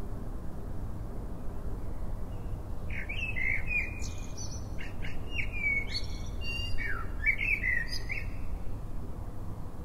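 A bird singing a run of short chirps and quick downward-sweeping whistles for about six seconds, starting a few seconds in, over a steady low rumble.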